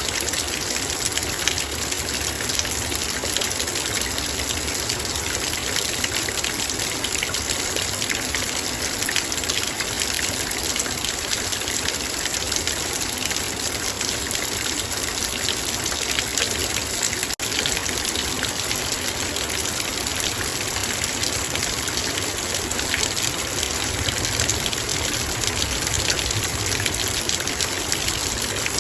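Heavy rain falling steadily on a metal bowl: a dense, even rush of countless drop impacts.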